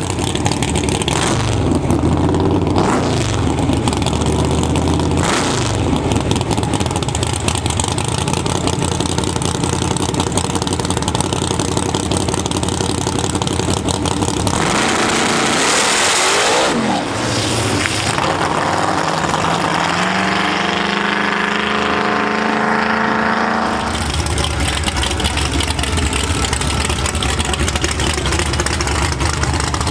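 Drag racing engines: a steady rumble, then about halfway a loud burst of noise and an engine climbing in pitch for several seconds as a vehicle accelerates hard down the track, then the steady rumble again.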